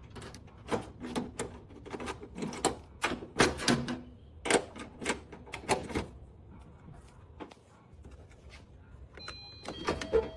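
A series of irregular sharp clicks and knocks for the first six seconds or so, then fainter, with a few short faint tones near the end.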